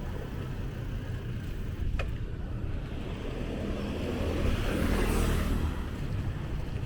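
Street traffic: a steady low rumble of motor vehicles, with one passing close and growing louder about five seconds in, and a single sharp click about two seconds in.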